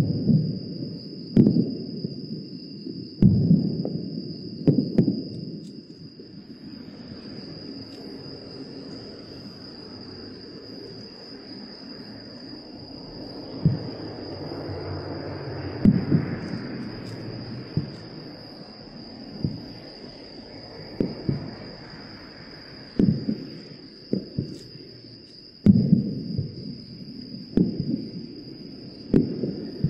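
Aerial fireworks shells bursting in a series of booms, each trailing off in echo, with a quieter crackling stretch from about six to thirteen seconds in before the bursts come thick again. A steady high whine runs underneath throughout.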